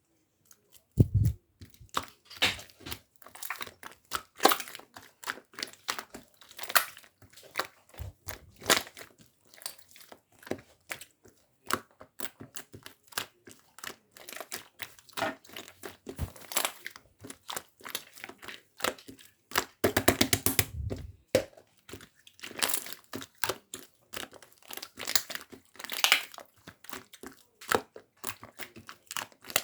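Hands squishing and pressing a milk pudding slime, giving irregular clicks and small pops of trapped air, with a quick run of crackling pops about twenty seconds in.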